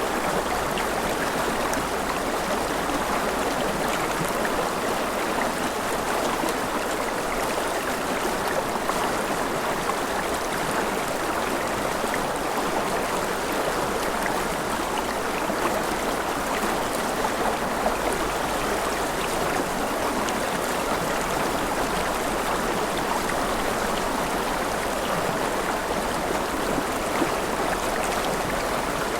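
Mountain river rushing over rapids: a steady, even rush of water with small splashes.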